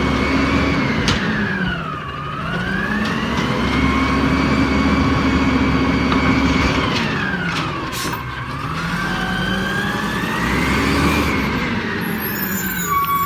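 Garbage truck's diesel engine running hard, its revs sagging and climbing back up twice and rising again near the end.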